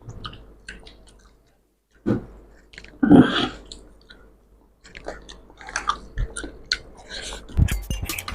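Close-miked chewing and mouth sounds of people eating rice with fish curry: small wet clicks and smacks, denser in the second half, with a louder short burst about three seconds in.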